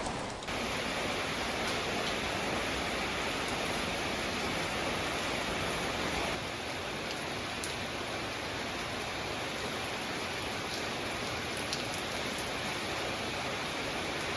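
Steady rain falling, an even hiss with a few faint drop ticks; it drops a little in level about six seconds in.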